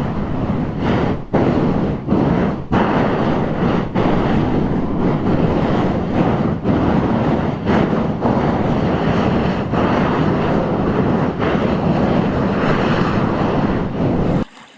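Loud, steady rushing noise, like strong wind or heavy water, that cuts off suddenly just before the end.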